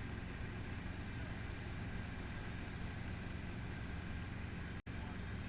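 Helicopter in flight: steady, unbroken rotor and engine noise, heavy in the low end. The sound cuts out for an instant near the end.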